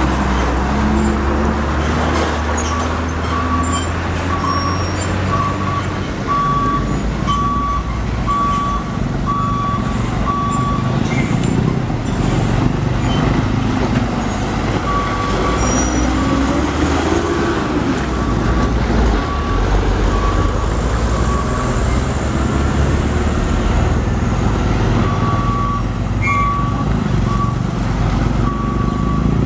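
Heavy truck engines running at low speed with road noise, the engine pitch rising and falling through the middle. Over them an electronic beeper sounds in runs of short beeps at one steady pitch.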